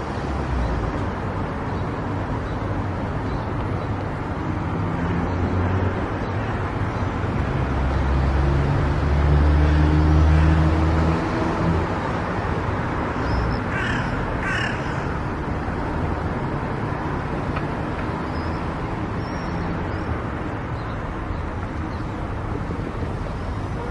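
Steady road and engine noise from a car driving along a country road, with a low rumble that swells from about eight to eleven seconds in. About fourteen seconds in, a crow caws twice in quick succession.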